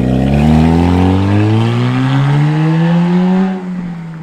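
Car with its muffler removed, its exhaust loud and unmuffled, accelerating hard with the engine pitch climbing steadily. About three and a half seconds in the throttle eases off and the sound drops in pitch and fades as the car pulls away.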